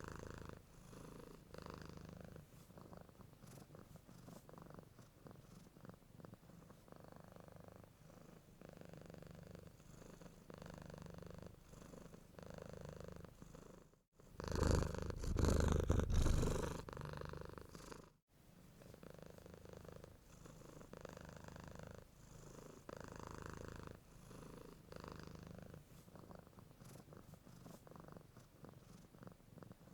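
Domestic cat purring close up, a steady low rumble that swells and fades with each breath. About halfway through, a much louder stretch of about four seconds cuts in and out abruptly.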